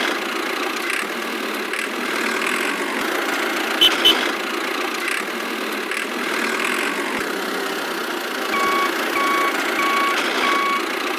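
Small motor of a miniature DIY construction machine running steadily with a gear-driven drone. Two sharp knocks sound about four seconds in, and four short reversing-style beeps come evenly spaced near the end.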